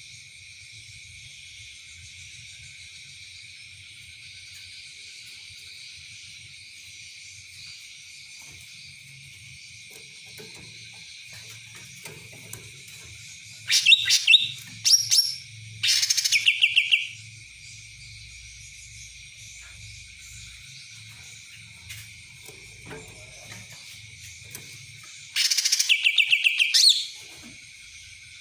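Cucak ranting songbird singing three loud phrases of rapidly repeated, trilling notes in kapas tembak style, about halfway through, shortly after, and again near the end, over a steady high-pitched drone.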